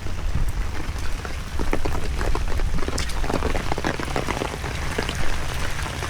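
Heavy rain, with many separate drops striking close by as short ticks, over a steady low rumble of wind on the microphone.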